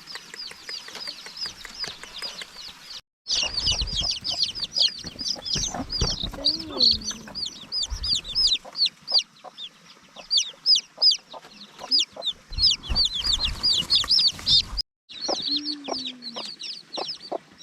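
Chickens calling: many high, rapid peeps and clucks overlapping. The sound cuts out briefly twice.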